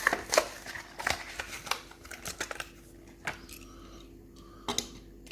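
Plastic blister pack of a carded Hot Wheels die-cast toy being cracked open and pulled from its cardboard backing: a quick run of crackling and clicking that thins out after about two and a half seconds, with a couple of sharp snaps later.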